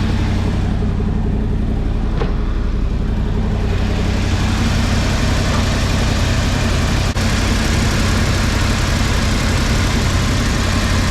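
1979 Ford F-150's V8 idling steadily while warming up, with a hiss that grows about four seconds in. The owner suspects a vacuum leak.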